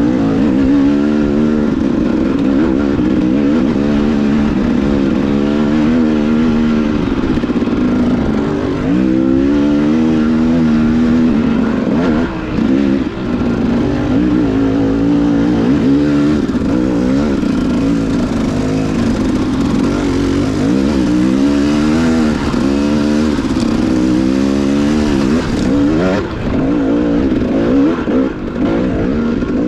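Dual-sport motorcycle engine running on a dirt trail, its pitch rising and falling constantly as the throttle is worked. The engine briefly drops away a few times as the revs come off.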